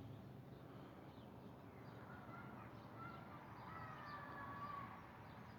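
Faint bird calls: short chirps throughout, with a longer drawn-out call in the middle, over a low steady hum.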